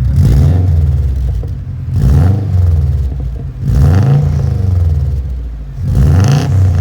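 Subaru WRX turbocharged flat-four engine revved about four times, its pitch rising and falling back toward idle with each blip.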